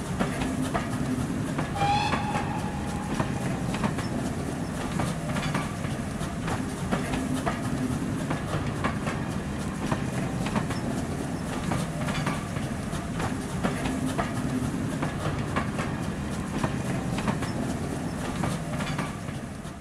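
A train's carriages running past with a steady rumble and the rhythmic clickety-clack of wheels over rail joints, and a brief whistle about two seconds in.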